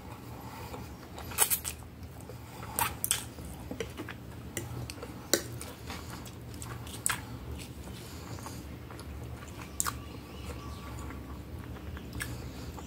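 Close-miked chewing of a mouthful of spaghetti, with scattered sharp clicks from the mouth and a fork against the plate.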